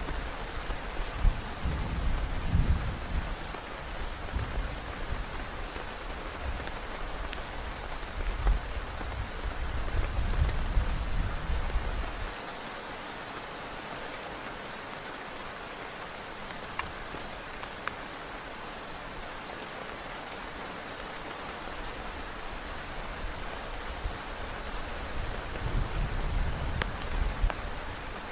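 Heavy rain falling steadily on a tent. Deep rumbling runs under it for about the first twelve seconds, drops away, and returns near the end.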